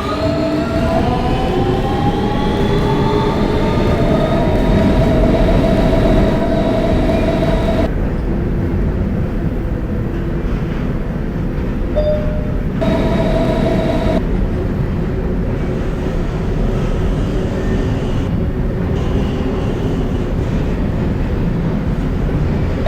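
R160B Siemens subway car's traction motors whining, the tones rising in pitch over the first few seconds as the train accelerates and then holding steady over the rumble of the wheels on the track. The main whine drops away about eight seconds in and comes back briefly a few seconds later.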